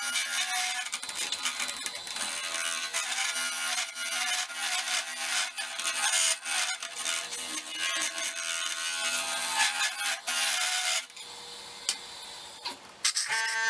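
A tool rubbing against a stick-and-resin vase blank spinning on a wood lathe: a steady rough scraping over the lathe's hum, stopping about eleven seconds in.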